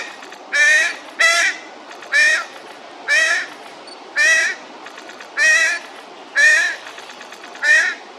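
A bird calling over and over: short, harsh calls, about one a second, each with a slight pitch bend.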